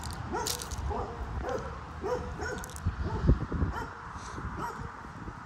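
A dog whimpering and yipping in short, high whines, about two a second, over a low rumble, with one dull thump about three seconds in.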